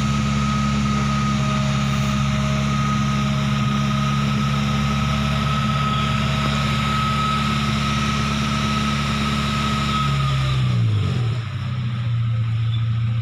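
SsangYong Rexton car engine running at a steady, slightly raised speed with a thin steady whine over it. About ten seconds in, the engine speed drops to a lower idle and the whine stops.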